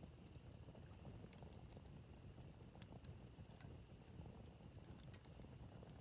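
Wood campfire burning quietly: scattered faint crackles and pops, irregularly spaced, over a low steady rumble.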